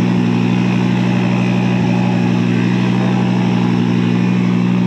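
Audi Sport quattro S1 Group B rally car's turbocharged five-cylinder engine idling steadily, loud and even.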